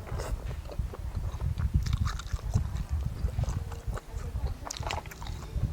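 Close-up chewing and wet mouth sounds of someone eating, with irregular soft smacks and small clicks.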